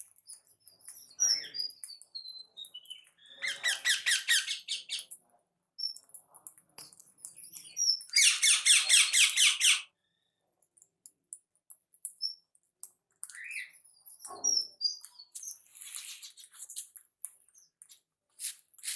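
Small caged pet birds chirping and chattering: scattered high chirps, a short run of notes falling in pitch early on, and two loud bursts of fast, rattling chatter, the second and longest about eight seconds in.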